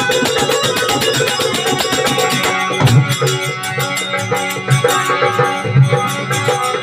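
Instrumental interlude of a Marwari devotional song: sustained melody notes over a fast, steady hand-drum and percussion rhythm, with no singing.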